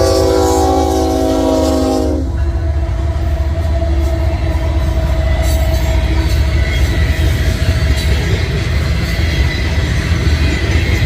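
Locomotive horn sounding a chord of several steady notes, which cuts off about two seconds in. Under it an eastbound coal train rolls by with a steady low rumble.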